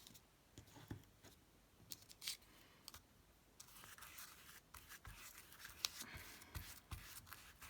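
Quiet handling of paper craft materials: scattered small clicks and taps, with a soft stretch of rustling and rubbing paper in the middle.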